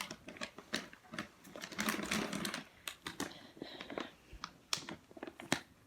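Plastic packaging of bird-treat bags handled close to the microphone: crinkling with a run of sharp clicks and taps, the crinkling loudest about two seconds in.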